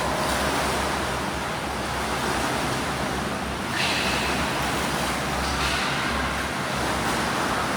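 Swimming pool ambience: a steady wash of water noise from swimmers, with a low hum underneath and a brighter splashing hiss about four seconds in.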